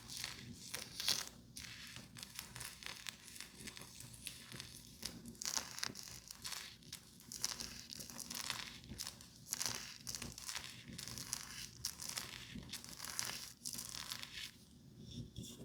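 Close-miked crinkling and scratchy rustling, a quick irregular run of small crackles, from makeup items being handled.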